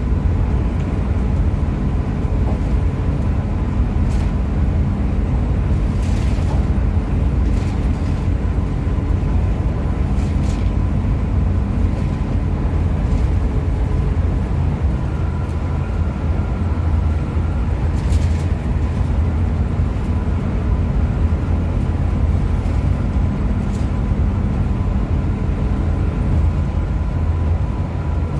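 Steady low rumble of a Hino RM 280 coach on the move, engine and road noise running evenly, with a few faint brief ticks or rattles.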